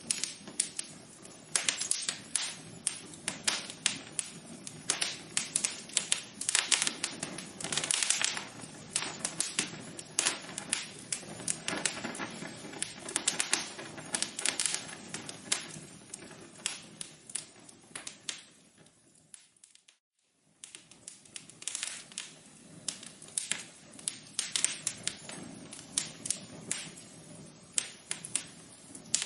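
Wood fire crackling in a fireplace: many irregular pops and snaps over a low hiss. About two-thirds of the way in the crackling fades almost to silence for a moment, then picks up again.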